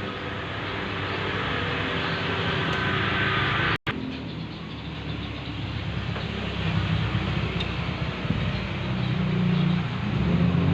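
A small engine running, its pitch wavering and rising as it is revved. The sound cuts out for an instant about four seconds in.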